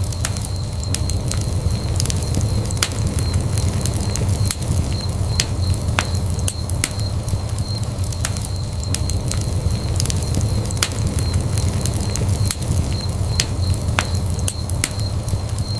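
Wood fire burning in a fireplace, a steady low rumble of flame with frequent irregular sharp crackles and pops, plus a faint steady high tone.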